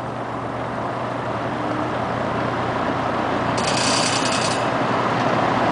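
Vintage Sears box fan starting up on low speed: a steady motor hum with air noise building gradually as the blades spin up. A brief higher hissing sound joins for about a second past the middle.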